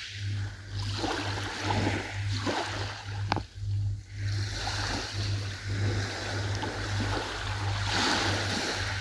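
Ocean waves splashing and washing, with a low pulsing hum underneath and a sharp click about three seconds in.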